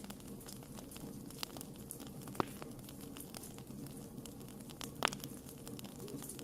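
Wood campfire crackling: a steady run of small pops and ticks from the burning wood, with two louder snaps about two and a half and five seconds in, over a low steady rush of flame.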